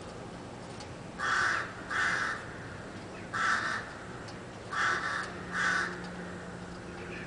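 A crow cawing five times in harsh, rasping calls: a pair about a second in, a single caw in the middle, and another pair about five seconds in.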